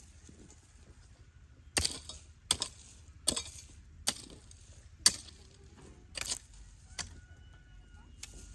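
A blade chopping, seven sharp blows about one a second, each with a brief rustling hiss.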